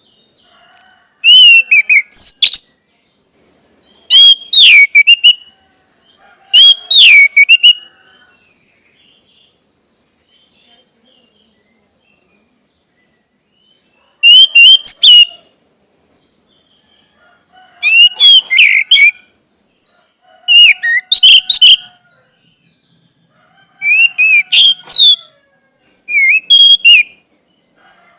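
Orange-headed thrush singing: about eight loud phrases of quick, gliding whistled notes, each a second or two long, with gaps of a few seconds between. A faint steady high hiss lies under the first two-thirds.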